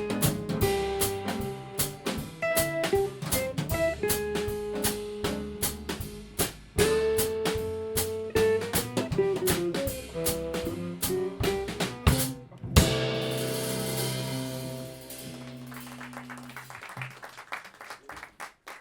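Small live band with guitar, drums and bass playing an up-tempo tune, ending on a final accented hit about thirteen seconds in whose chord rings out and fades away.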